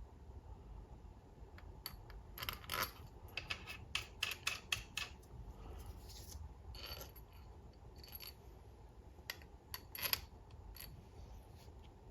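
Small steel valve-body bolts clinking as they are handled and set into their holes in a ZF 8HP70 transmission: a scattered run of light metallic clicks, thickest from about two to five seconds in and again near ten seconds.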